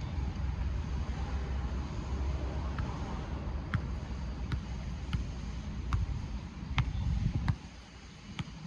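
A football struck repeatedly in solo ball-control practice, a sharp tap about every three quarters of a second, over a low wind rumble that drops away near the end.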